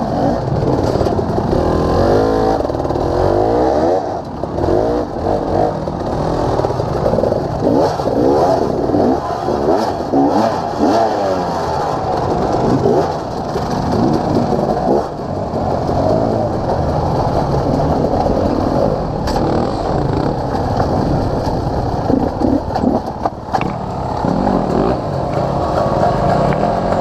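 Off-road motorcycle engine revving up and down over and over as the throttle is worked, with a few sharp knocks.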